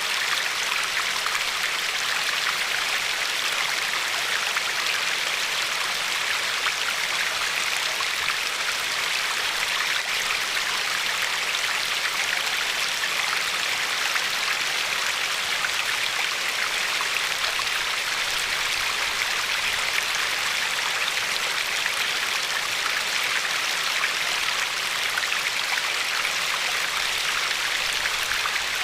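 Glacier-fed river flowing over a pebble shore: a steady, even rush of running water with no change or break.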